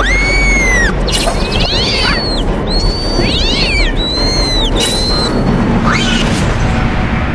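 A run of long, high animal cries, each rising and then falling in pitch, with two quick flurries of falling chirps between them, over a steady hiss and low rumble of storm ambience.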